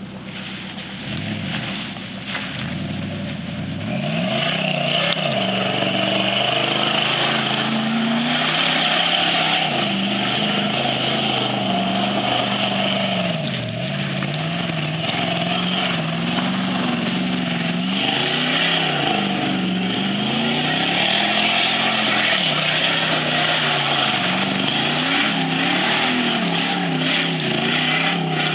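Truck engine revving up and down over and over under load. About four seconds in, a loud rushing noise joins it and keeps going.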